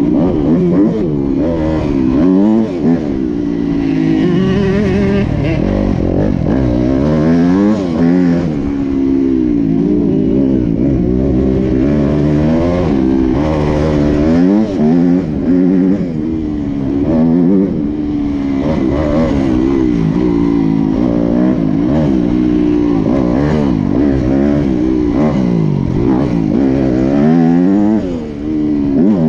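Motocross bike engine being ridden hard, revving up and dropping back again and again, every second or two, as the throttle opens and closes and the gears change.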